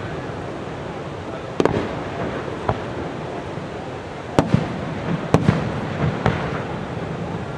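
Aerial fireworks shells bursting: about five sharp bangs at irregular intervals, the first about a second and a half in, with several fainter pops between them, over steady background noise.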